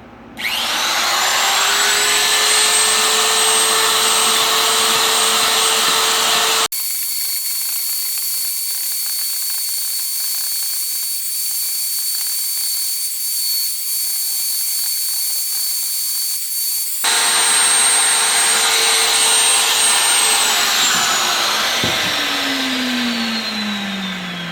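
Handheld electric power tool's motor spinning up to a steady high-speed whine and running, then winding down with a falling pitch near the end. The sound changes abruptly partway through, losing its low end for a stretch before the full motor sound returns.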